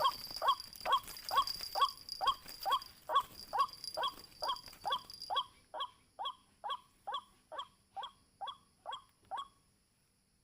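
White-breasted waterhen (ruak-ruak) calling its repeated croaking call, about two short falling notes a second in a steady run that stops abruptly near the end.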